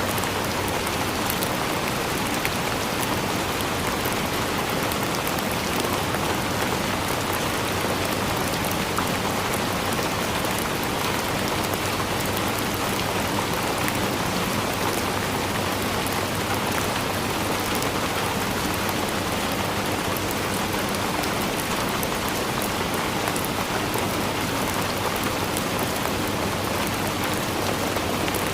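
Steady rain falling, an even hiss with many small individual drop hits, unchanging throughout.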